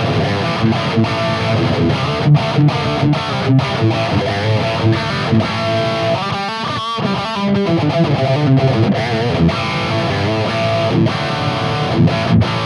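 High-gain distorted electric guitar playing a metal riff of staccato chugs, with a short lead phrase of bends and vibrato about halfway through. The tone comes from a Mooer Brown Sound 3 preamp pedal, modelled on the EVH 5153, running into a power amp and a Marshall Mode Four cabinet with Vintage 30 speakers miked by an SM57, with no noise gate. Its top end is a little on the digital side.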